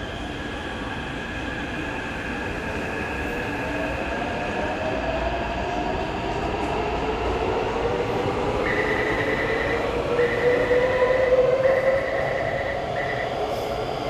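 Taipei Metro C381 electric train pulling out of a station, its traction motors whining in a pitch that climbs steadily as it picks up speed, growing louder. A high steady tone comes and goes in a few stretches about two-thirds of the way in.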